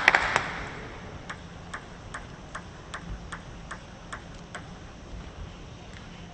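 Celluloid-type plastic table tennis ball bouncing: light, evenly spaced ticks about two or three a second, ending after a few seconds. A few claps die away at the start.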